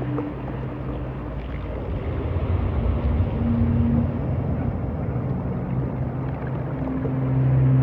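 A steady low engine hum over a rushing noise, growing louder near the end.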